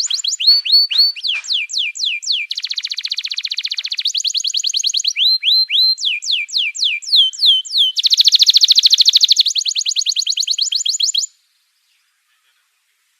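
Songbird singing a fast, loud phrase of downslurred whistles, repeated a few times a second, alternating with rapid high trills. It cuts off suddenly about eleven seconds in.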